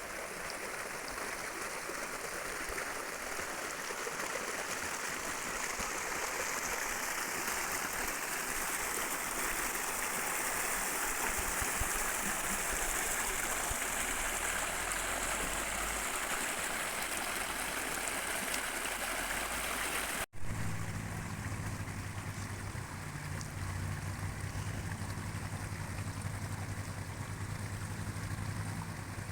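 Steady rush of a stream's running water. About two-thirds of the way through the sound cuts off abruptly, and the water then comes back softer, with a steady low hum under it.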